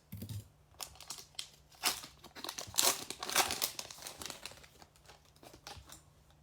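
A trading-card pack's wrapper being torn open and crinkled by hand, in irregular rustling bursts that are loudest around two to three and a half seconds in and fade in the second half.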